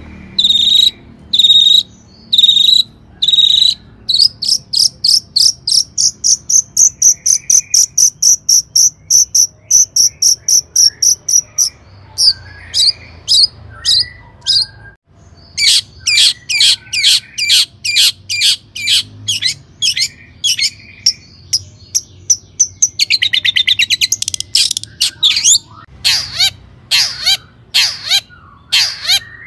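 Long-tailed shrike (cendet) singing a varied song: fast, even runs of short, sharp repeated notes, a brief pause past the middle, a dense rapid trill, and downward-sweeping notes near the end.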